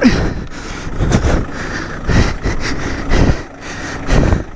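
Off-road 4x4 engine revving in repeated surges about once a second while the vehicle, stuck on an obstacle, fails to climb.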